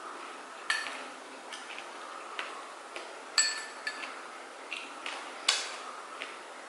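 Eating utensils clinking against dishes: a string of sharp clicks and taps, a few of them ringing briefly, with the loudest about a second in, halfway through and near the end.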